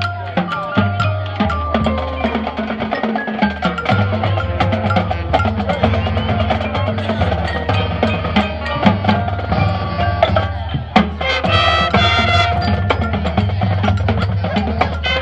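Marching band playing, heavy on percussion: a quick run of drum and wood-block strokes over sustained low notes, with mallet percussion. A fuller, brighter passage comes in about eleven seconds in.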